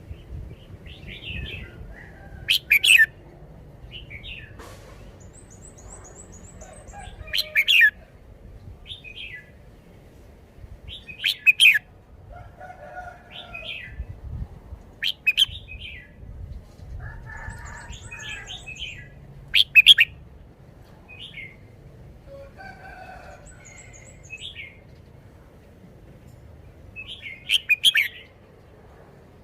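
Red-whiskered bulbul singing: short, loud, sharp whistled phrases about every four seconds, with quieter chirps and whistles between them. Three times, a very high, rapid trill sounds in the gaps.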